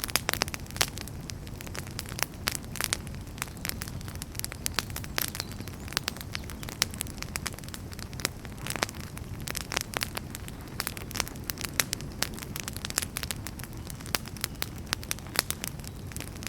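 Wood campfire crackling: many irregular sharp pops and snaps over a steady low rumble of the flames.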